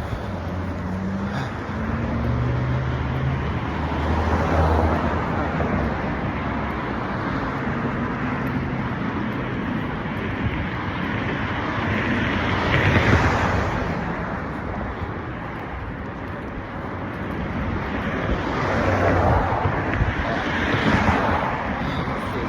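Road traffic: vehicle noise that swells and fades several times as vehicles pass, with a low engine hum in the first few seconds.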